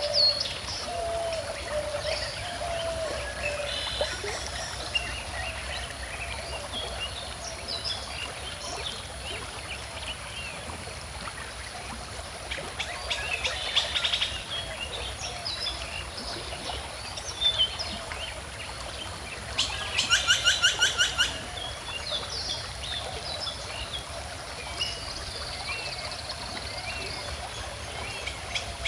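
Small stream flowing steadily, with several birds singing and chirping over it. About two-thirds of the way through, one bird gives a loud, rapid series of repeated notes lasting about a second and a half.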